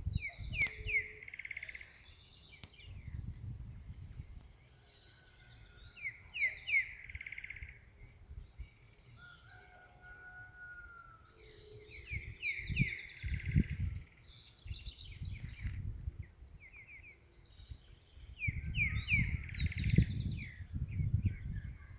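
A songbird repeating the same short song about every six seconds: a quick run of slurred notes ending in a rougher, buzzy flourish. Bursts of low rumble come and go beneath it, heaviest near the end.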